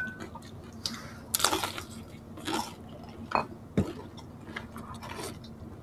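Chewing crispy deep-fried pork skin (crispy pata), with several short crackly crunches spread through the quieter mouth sounds.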